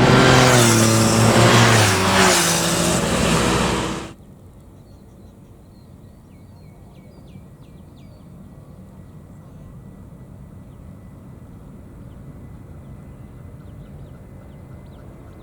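Airbus A350-900 jet on takeoff, its Rolls-Royce Trent XWB engines loud with a falling whine as it passes, cut off abruptly about four seconds in. After that, a quiet background with a few faint high chirps.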